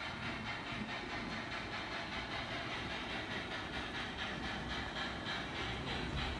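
Model train running on a layout's track: a steady rolling rumble with hiss.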